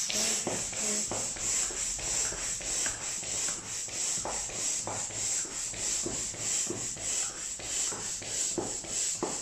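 Manual air pump inflating an inflatable boat: air hissing in quick, regular pumping strokes.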